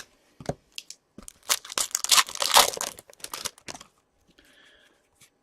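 A trading card pack's foil wrapper being torn open and crinkled, a dense crackling rustle lasting a couple of seconds, with a few light clicks of handling before and after.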